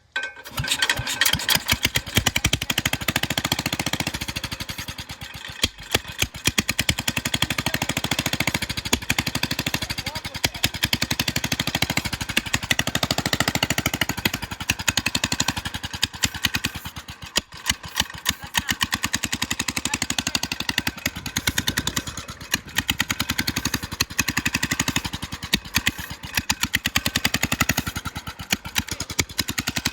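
A small engine running steadily, a fast even chugging of rapid pulses, with brief dips in level a few times.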